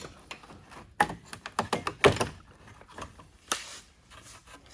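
Knocks and clicks of parts and tools being handled under a car. There is a hard knock about a second in, then a quick run of clicks, the loudest knock a little after two seconds, and another about three and a half seconds in.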